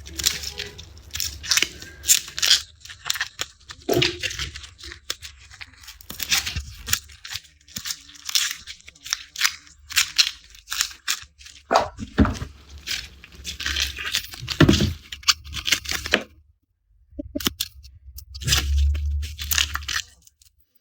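Garlic being peeled by hand: rapid, crisp crackling and tearing of dry papery skins, in quick runs of short snaps, pausing briefly about three quarters of the way through.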